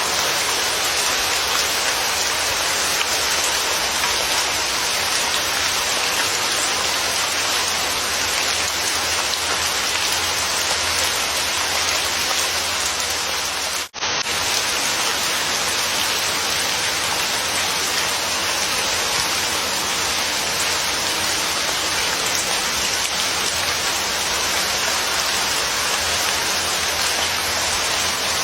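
Steady rain falling, an even dense hiss that drops out for an instant about halfway through before carrying on unchanged.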